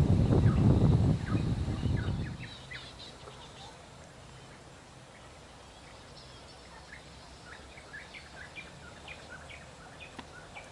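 A loud low rumble for the first two seconds, then small birds chirping, a scatter of short high chirps.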